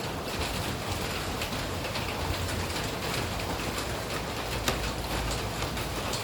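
Steady rain falling, with scattered drops ticking on a surface and a low rumble underneath; one drop ticks louder about three-quarters of the way through.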